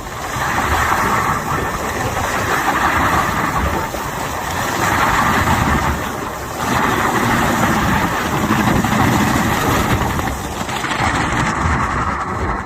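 A heavy machine's engine running, its loudness rising and falling, with brief dips about four, six and a half and ten and a half seconds in.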